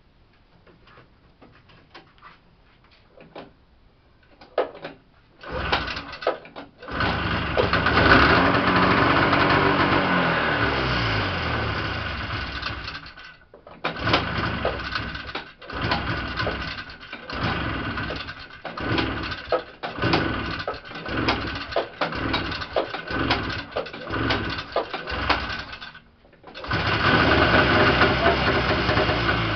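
Freshly rebuilt Yamaha Enticer 340 snowmobile's two-stroke twin being started for the first time: a few faint clicks, then it catches about five seconds in and runs with the revs falling away. It cuts out, then stumbles and sputters in uneven bursts for several seconds, drops out briefly and catches again near the end, running steadily.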